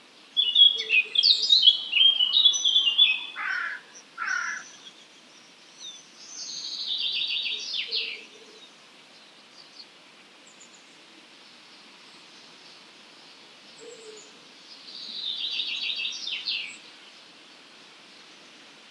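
Wild songbirds singing: a busy, varied run of quick high notes for the first four seconds or so, then twice a short rapid phrase of fast repeated notes, about eight seconds apart, over faint outdoor background noise.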